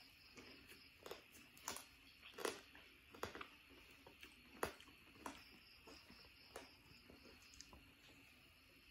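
Close mouth sounds of a person eating by hand: scattered soft smacks and clicks of chewing, loudest around two and a half and four and a half seconds in, over a faint steady high hiss.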